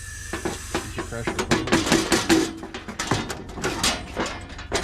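Irregular metallic clinks and knocks as bolts are loosened and parts are taken off a sawmill's blade assembly by hand.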